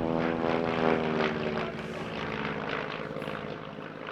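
Light propeller aircraft flying past, its piston engine droning and falling in pitch as it goes by, then fading away.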